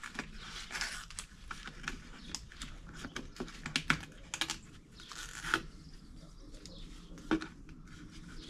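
Irregular light clicks and taps of objects being handled, some sharper knocks about four, five and a half and seven seconds in, over a faint steady low hum.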